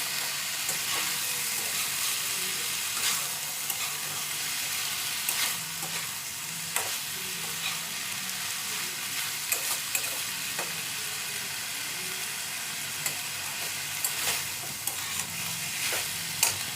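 Chicken and onion rings frying in a pan with a steady sizzle, a spatula stirring and scraping now and then with sharp clicks against the pan.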